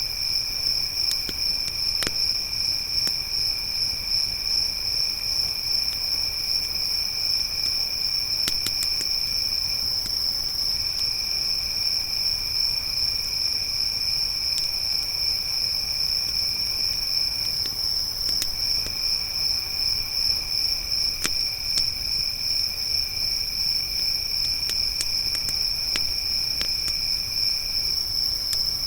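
Crickets trilling without a break, one high-pitched chorus over a lower one that stops for a moment three times. Sparse faint pops and crackles from a campfire come through underneath.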